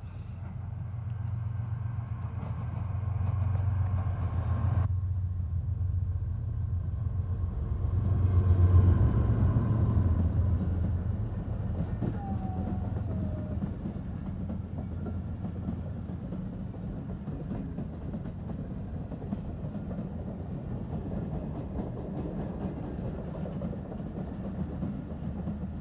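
Train running past: a low rumble that swells about four seconds in and is loudest near nine seconds, then settles into an even rumble.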